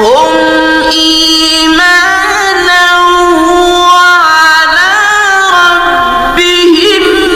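A man's voice reciting the Quran in a melodic, chanted style, with long held notes ornamented by slides and turns and short breaks between phrases.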